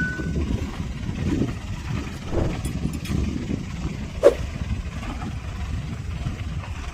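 Heavy diesel construction machinery running with a steady low rumble, with a few brief metallic knocks, the sharpest about four seconds in.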